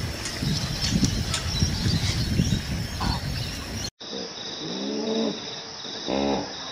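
Birds chirping over a dense low rumble. About four seconds in a hard cut brings a different recording: a steady, evenly pulsing high trill, with a few drawn-out low animal calls that bend up and down in pitch.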